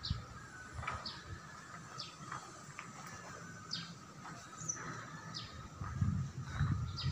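Small birds chirping: short, high, downward-sliding chirps about once a second, over a faint steady high tone. Low rumbling bumps come in near the end.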